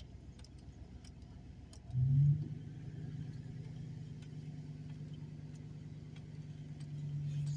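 Pickup truck engine starting up about two seconds in, then running at a steady speed.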